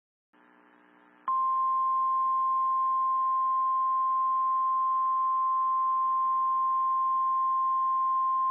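NOAA Weather Radio 1050 Hz warning alarm tone: one long, steady, high-pitched beep that starts about a second in and holds. It is the alert signal that a warning broadcast is about to follow. Faint radio receiver hiss and hum can be heard just before it.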